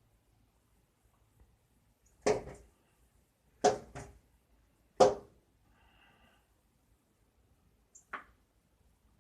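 A bird striking a window pane again and again: four sharp knocks in the middle, with a fainter knock near the end.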